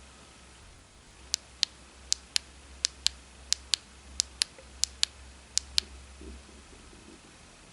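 Seven pairs of sharp clicks, each a quick double click, coming about one pair every 0.7 seconds.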